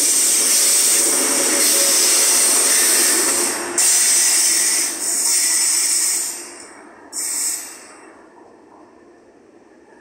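An ETR 500-type high-speed electric train passing close by at speed: a loud rushing hiss of wheels on rail and moving air that wavers as the coaches go by. It drops away about six to eight seconds in, after one last short burst, as the rear power car pulls off.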